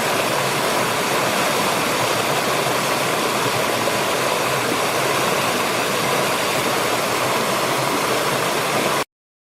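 Steady, loud rush of a waterfall, cutting in abruptly and cutting off abruptly near the end.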